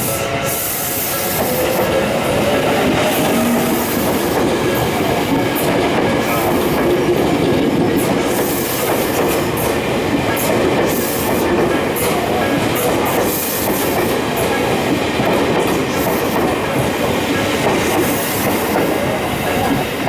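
Electric commuter train running past, a loud steady rumble with wheels clicking over rail joints throughout.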